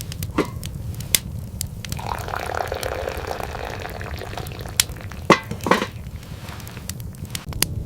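Liquid being poured for about two seconds, with several sharp clinks around it and a low steady rumble underneath.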